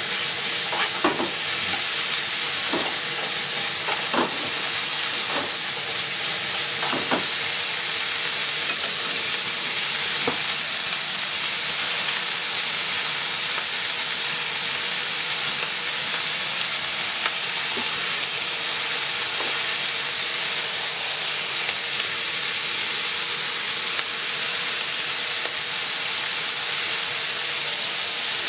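Sliced onion and ham sizzling steadily in a nonstick frying pan over a gas flame. In about the first ten seconds a few sharp clicks come from chopsticks stirring against the pan; after that there is only the even sizzle.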